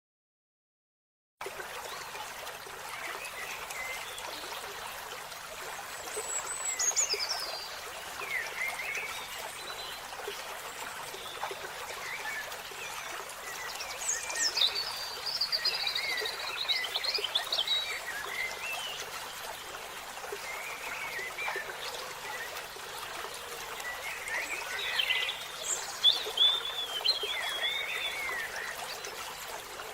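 Wild birds calling: quick, falling high whistles and chattering notes in three bouts, about six seconds in, in the middle and near the end, over a steady hiss. The sound starts about a second and a half in.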